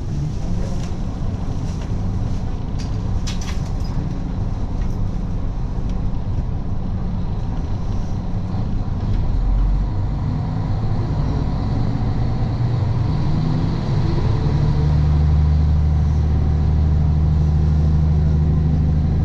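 A vehicle's engine running steadily, with a few light clicks in the first few seconds; about 14 seconds in the engine note grows stronger and deeper, as if under more load.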